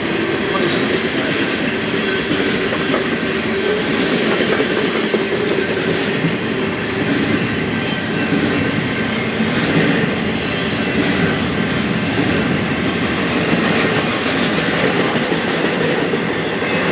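Intermodal freight train cars rolling steadily past, a continuous loud rumble and rattle of steel wheels on the rails.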